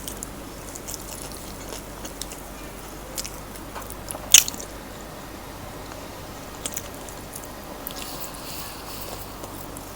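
Close-miked eating sounds: crunchy bites and chewing of crispy fried chicken, with scattered crisp crackles and one loud crunchy bite about four and a half seconds in.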